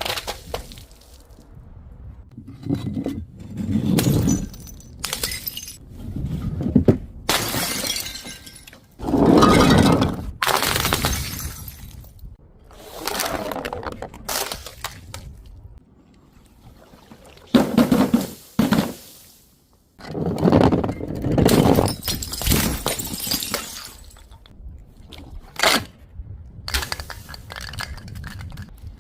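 Glass bottles and jars breaking and shattering one after another: a long run of separate crashes, each about a second long, with short quieter gaps between.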